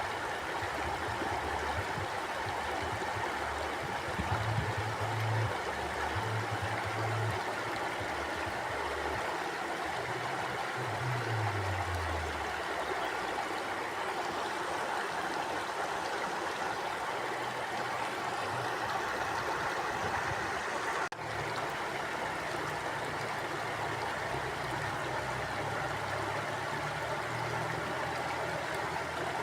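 Mountain stream rushing steadily over rocks, with a low rumble that comes and goes underneath. A brief dropout about two-thirds of the way through.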